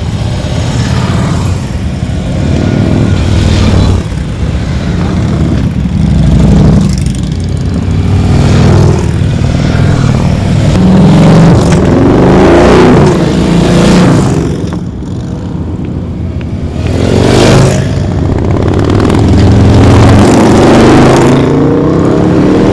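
A group of motorcycles riding past one after another, engines running loud, each passing bike swelling up and fading away.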